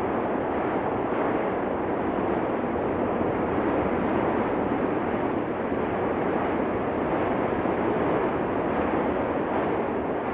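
Steady, unbroken roar of the Cumbre Vieja volcano erupting, an even rushing noise with no separate blasts or pauses.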